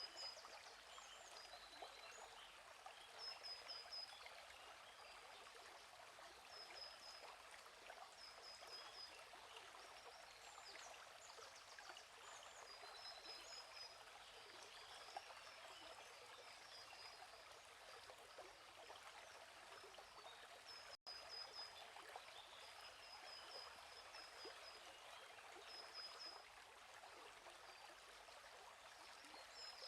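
Faint flowing stream, a steady rushing babble, with small birds repeating short high chirping phrases every few seconds. The sound drops out for an instant about two-thirds of the way through.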